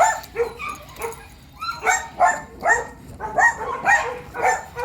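A dog barking over and over in short barks, about two a second, louder from about two seconds in.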